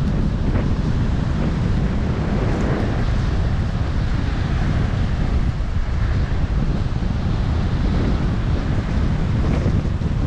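Strong wind buffeting the microphone with a steady low rumble, over the hiss of Baltic Sea surf breaking against the shore and breakwater.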